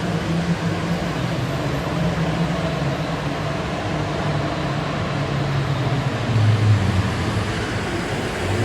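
Road vehicle driving, a steady engine drone over road noise. The engine note drops lower about six seconds in.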